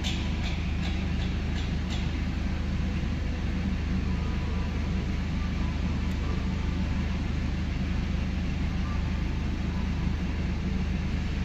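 BMW X1 E84's engine idling steadily at about 800 rpm, heard from inside the cabin as an even low hum and rush. A few faint ticks come in the first two seconds.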